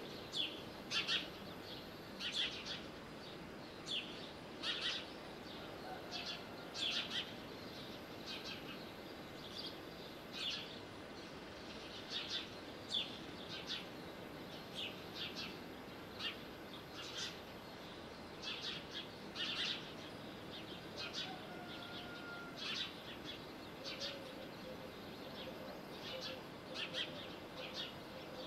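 Small birds chirping: many short, sharp, high chirps at an uneven pace of roughly one a second, over a steady low background hiss.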